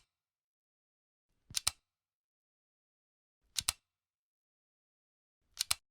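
Camera shutter released three times, about two seconds apart, each release a quick double click.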